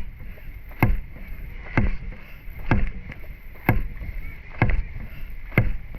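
A dragon boat's drum beaten in a steady rhythm, about one beat a second, setting the paddlers' stroke during a race.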